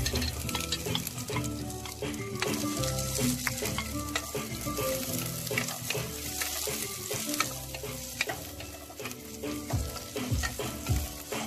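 Chopped chillies, garlic and ginger sizzling as they fry in a stainless steel pot, stirred with a wooden spoon, with short clicks and scrapes of the spoon against the pot.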